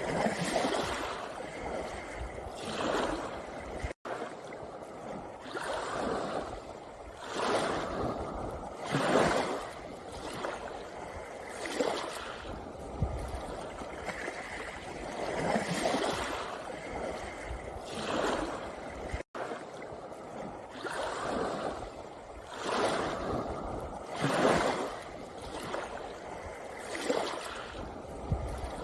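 Small sea waves washing in and out over a pebble beach, a surge every two to three seconds that swells and fades.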